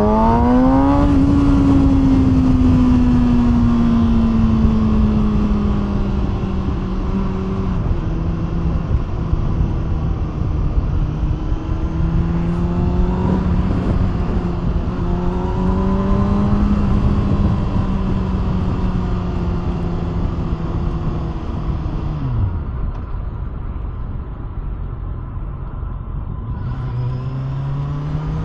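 Kawasaki ZX6R inline-four sport bike through an SC Projekt aftermarket exhaust, accelerating hard with rising revs at the start, then cruising at steady revs with a few small changes. About two-thirds through, the throttle closes and the revs drop, the bike runs quieter for a few seconds, and near the end it accelerates again with climbing revs.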